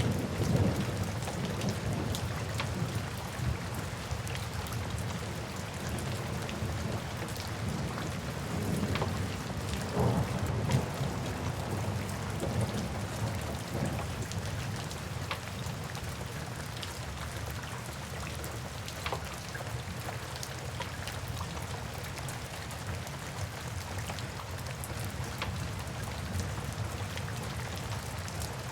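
Steady rain with a low rumble, a roll of thunder dying away in the first second or so, and scattered pops and crackles of a wood fire burning.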